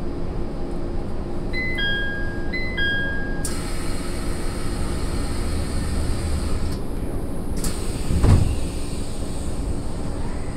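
SAT721-series electric train running, heard inside the car: a steady rumble of wheels on rail. About two seconds in, a two-note high-low chime sounds twice; from about three and a half seconds a hiss joins the rumble, and a single heavy thump comes about eight seconds in.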